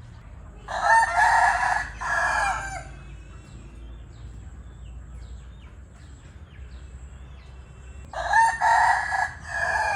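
Rooster crowing twice: one crow about a second in, lasting about two seconds, and a second crow near the end.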